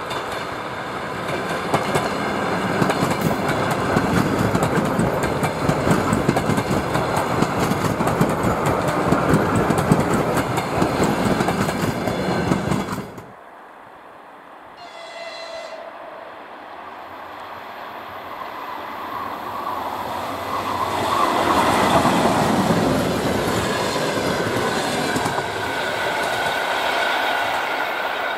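ER9M electric multiple unit passing close by, its wheels clattering steadily over the rails, until a sudden cut about halfway through. A short train horn blast follows, then a locomotive-hauled passenger train rumbles past, rising and fading away.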